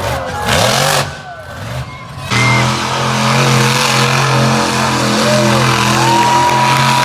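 Monster truck engines revving, the pitch swinging up and down, then from about two seconds in a steady engine drone held at one pitch.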